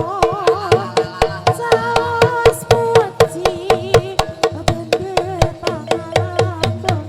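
Javanese gamelan music for a barongan dance: sharp drum strikes in a fast, steady beat, about four a second, under a wavering melody line and steady gong-like tones.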